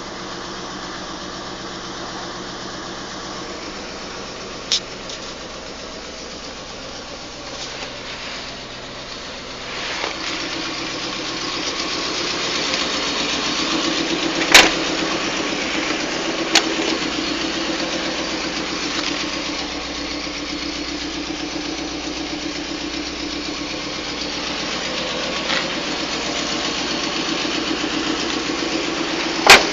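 1990 Cadillac Sedan deVille's 4.5-litre V8 idling steadily, getting louder from about ten seconds in, with a few sharp clicks on top; the loudest click comes near the end.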